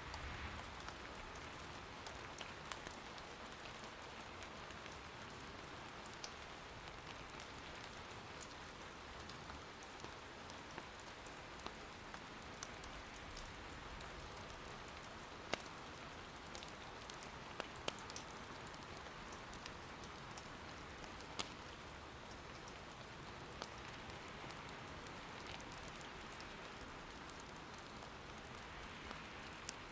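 Soft, steady rain patter, with a scattering of short sharp pops through it: firewood crackling in an irori hearth.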